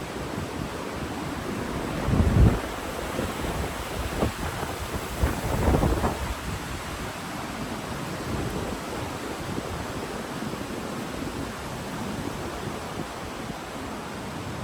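Wind buffeting the microphone in two heavy low gusts, about two seconds in and again around five to six seconds, over a steady rushing noise.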